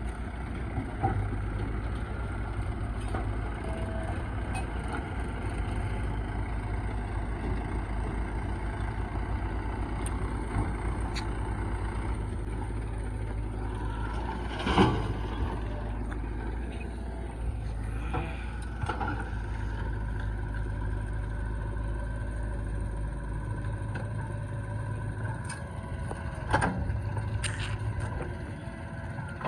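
Heavy diesel engine of earth-moving machinery running at a steady speed, with a few loud knocks, the loudest about halfway through and another a few seconds before the end.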